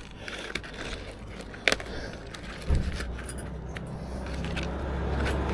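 Light metallic clicks and rattles of steel reinforcement mesh being handled and tied with plastic cable ties, with one sharper click partway through. A low steady rumble sets in about halfway and slowly grows.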